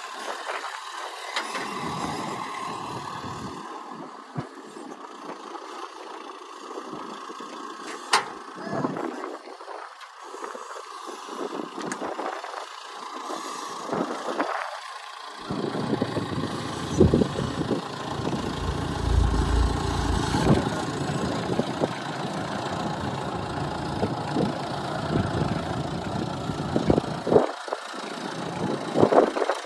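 A vehicle engine running under gusts of wind buffeting the microphone, with a sharp click about eight seconds in.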